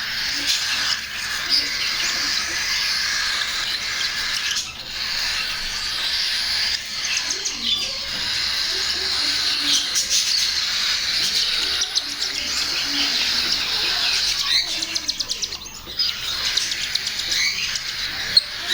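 Cockatiel chicks giving continuous, rapid, rasping begging chirps during hand-feeding, with quick pulsed bursts now and then.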